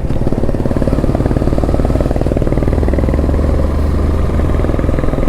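Motorcycle engine running steadily under way, with a fast, even throb; a deeper low hum joins it for a couple of seconds in the middle.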